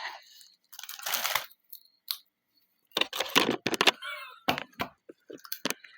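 Crunchy hot Cheetos being bitten and chewed close to the microphone, in irregular bursts of crunches, with a short vocal whine or squeal about four seconds in.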